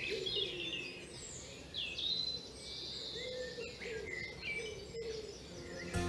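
Garden birdsong: several small birds chirping and trilling, with a lower, repeated cooing call from a pigeon underneath.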